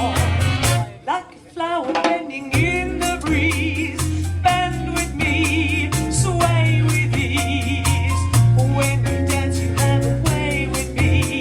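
Big band playing swing-era dance music, a steady drum beat under held, wavering horn lines, with a brief break in the band about a second in.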